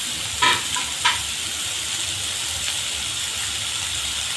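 Beef pieces frying in a wok, with a steady sizzling hiss over a low hum. Two short, sharp, higher-pitched sounds come about half a second and a second in.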